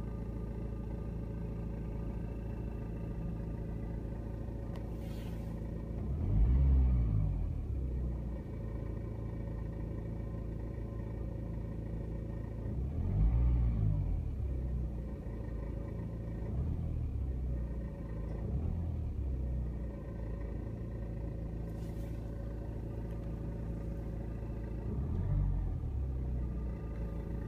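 BMW 120d (E87) four-cylinder diesel idling with a rattle, revved briefly about five times, the first about six seconds in and the last near the end. The owner wonders whether the rattle is a stretched timing chain or the exhaust flex pipe.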